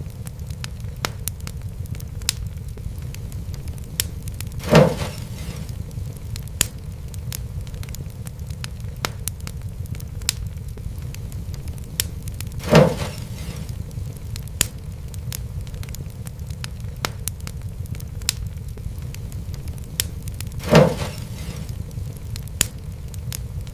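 Wood fire crackling over a steady low rumble, with frequent small sharp crackles and three louder pops evenly spaced about eight seconds apart.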